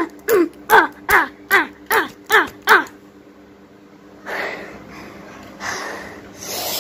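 A bird calling in a fast series, about two or three short calls a second, each falling in pitch; the calls stop about three seconds in. Two stretches of rustling noise follow.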